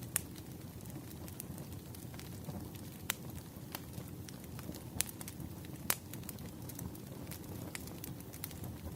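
Wood fire burning: a steady low rumble of flames with irregular sharp crackles and pops from the firewood, a few louder pops standing out.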